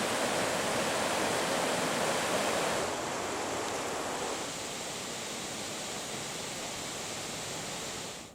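Waterfall pouring, a steady rush of water that drops a little in level about three seconds in and again a second or so later.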